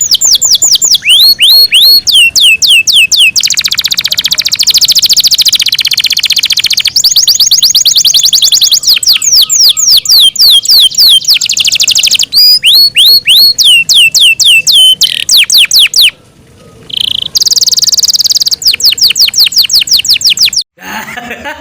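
Yorkshire canary singing loudly in a long, unbroken song of rapid trills and rolls, with series of quick sweeping notes repeated several times a second. It breaks off briefly about two thirds of the way through, then resumes and stops near the end.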